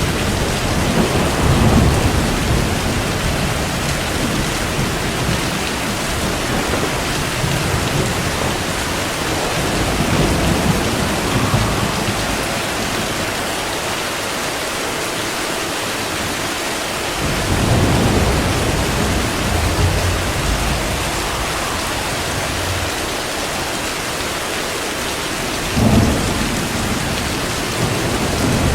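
Steady heavy rain with thunder rumbling through it in several low swells, and a sharper, louder clap near the end.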